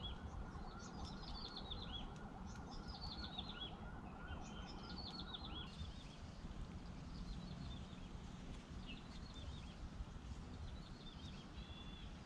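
Songbird singing repeated short phrases that drop in pitch, about one every second and a half, with a steady pulsing call under it for the first half, over low outdoor background noise. About six seconds in the pulsing call stops and the song becomes fainter and sparser.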